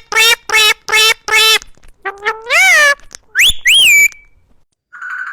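A parrot calling: four short, evenly spaced squawks, then a longer call that rises and falls in pitch, then two sharp upward-gliding whistles.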